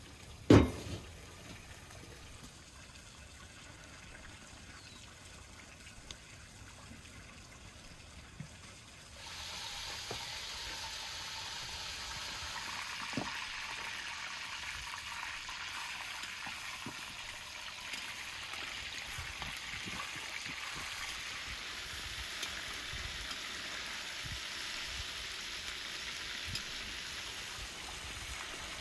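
Chicken frying in hot oil in a wide metal kazan: a steady, even sizzle that starts suddenly about a third of the way in, with a few soft knocks of the pan or utensil. A single sharp knock comes right at the start, before a quiet stretch.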